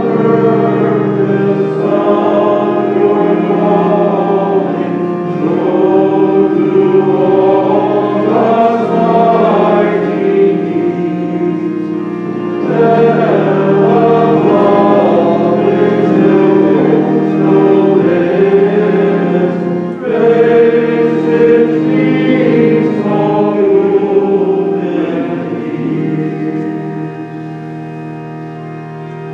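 Choir singing a hymn over sustained organ chords, fading toward the end.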